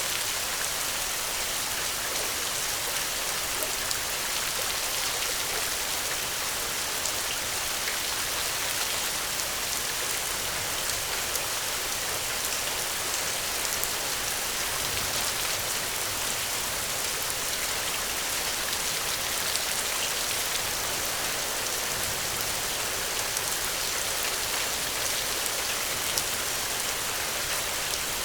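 Steady rainfall, a continuous hiss of drops with many small individual patters.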